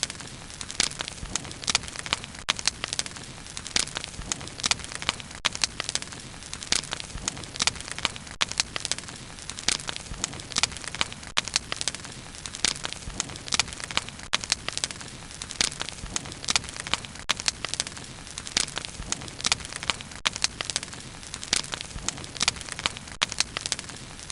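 Wood bonfire burning, with many sharp irregular crackles and pops over a steady low rumble of the flames.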